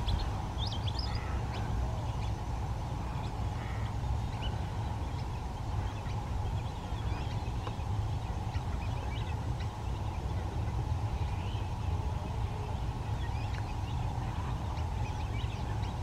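Outdoor wetland ambience: a steady low rumble with scattered short, distant bird chirps.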